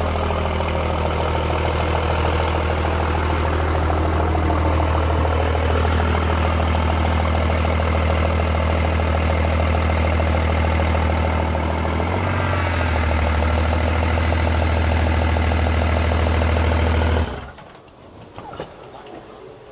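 2000 hp diesel drag truck engine idling loudly and steadily with a deep rumble. It stops abruptly about 17 seconds in.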